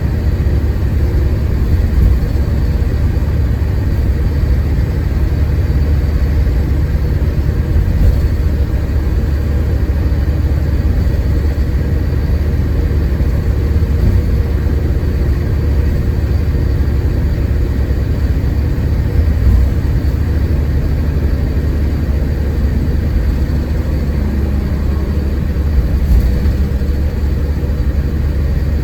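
Scania K410IB coach under way, its diesel engine and drivetrain giving a steady, loud low rumble. There are a few light knocks from the body now and then.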